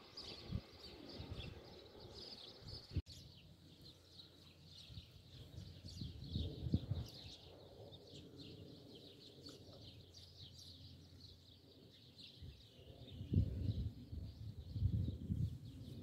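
Small birds chirping repeatedly in the background, with a few bursts of low rumbling noise, the loudest near the end.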